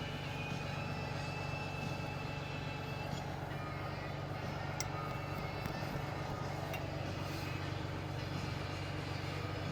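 Steady low engine drone running unchanged, with a couple of light clicks about halfway through.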